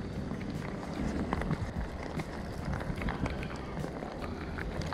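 Steady rain, with scattered drops ticking sharply on the wet camera housing, over a steady low rumble.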